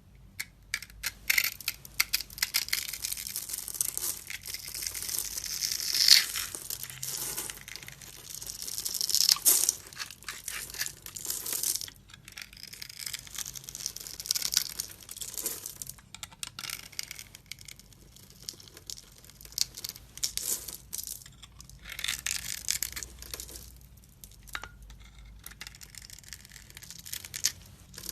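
Dry soap crunching and crackling as it is crushed and crumbled, in irregular bouts of dense crisp crackles with short pauses between them.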